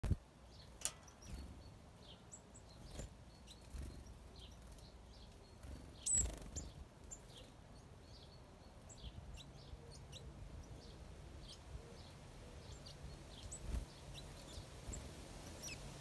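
Small songbirds chirping faintly: many short, high chirps scattered throughout, with a few sharp clicks, the loudest about six seconds in.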